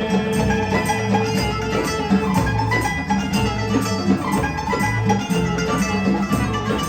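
Live band playing an instrumental passage of a Turkish pop song, with plucked strings over a steady bass line and beat.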